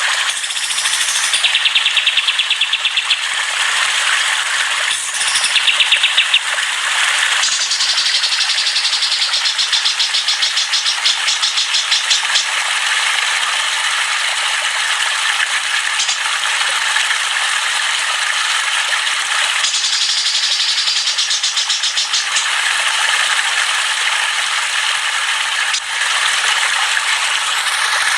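Dense chorus of songbirds singing nonstop, layered rapid rattling trills and chatter that shift between higher and lower-pitched phrases every few seconds.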